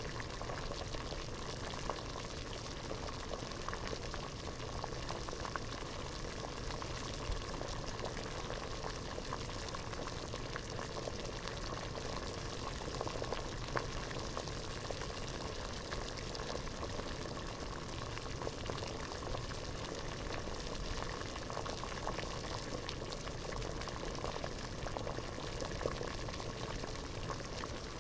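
Water boiling hard in a pot, a steady dense bubbling made of many small pops.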